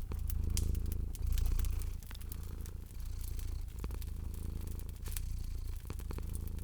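Cat purring, a low rumble that swells and eases with each breath, over a crackling fire with scattered sharp pops and snaps.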